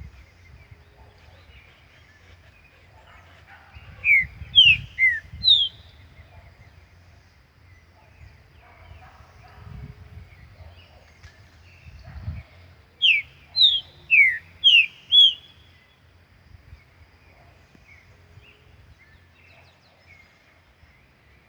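Green-winged saltator (trinca-ferro) singing two loud phrases of short, clear, down-slurred whistles: four notes about four seconds in, and six more about thirteen seconds in. A low rumble runs underneath.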